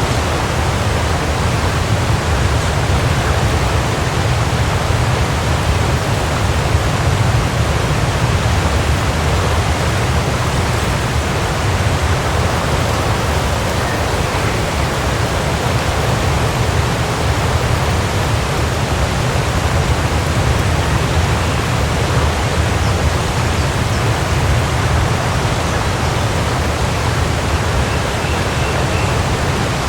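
Waterfall: water pouring and splashing in a steady, unbroken rush, heavy in the low rumble.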